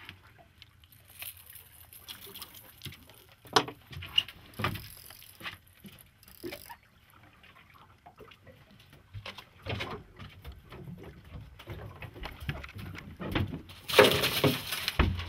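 Scattered knocks and taps on a boat, with a denser burst of noise about a second before the end.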